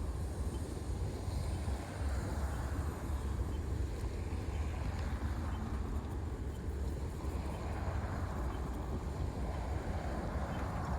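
Steady low rumble of wind buffeting the microphone, mixed with the wash of city street traffic.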